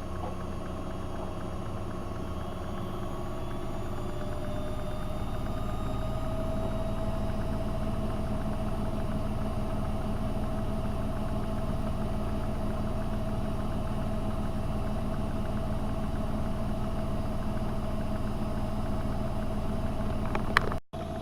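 AEG Öko Lavamat 72520 washing machine running, its motor giving a steady hum with a whine that rises slightly over the first few seconds and then holds. A short click comes near the end, followed by a brief dropout.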